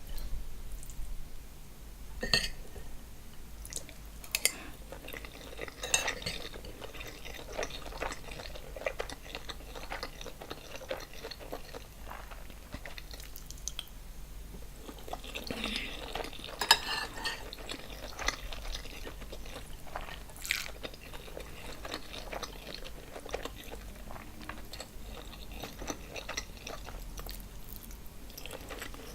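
Close-miked eating of a seafood boil: chewing and wet mouth sounds, with many scattered sharp clicks and knocks from the dish and utensils, the loudest a little past the middle.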